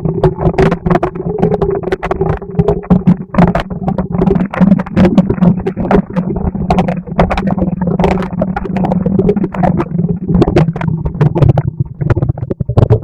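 Harsh noise music: a dense, rapid, irregular clatter of distorted hits over a steady low droning hum.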